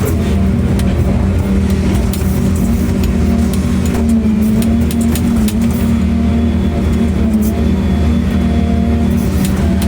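A machine's engine running steadily with a deep, even hum, with occasional short clicks and knocks over it.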